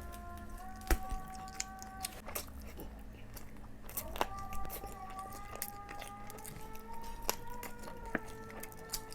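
Close-up eating sounds: wet chewing and biting with frequent short sharp mouth clicks, over soft background music of long held notes.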